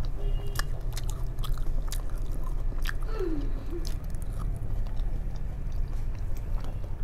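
Close-up chewing and biting of crisp fried food, with many sharp, irregular crunches and crackles of the crust as it breaks.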